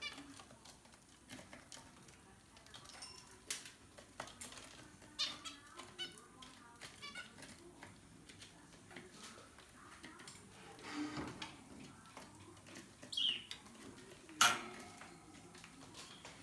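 Aviary birds chirping and calling in short, scattered bursts, with one sharp, louder call near the end.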